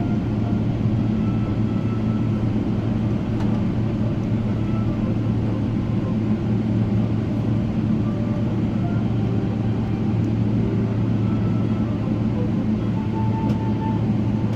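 Steady low drone of a Boeing 777-300ER cabin, engine and airflow noise heard from inside the aircraft, even and unbroken throughout.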